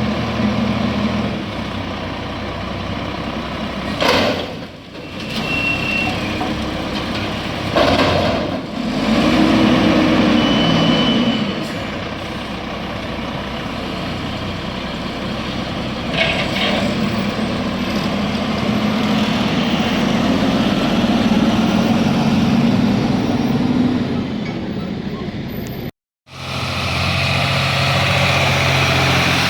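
A diesel garbage truck engine running and revving up and down while it packs trash. There are two sharp hissing bursts about four seconds apart, and the sound cuts out briefly near the end before the engine returns.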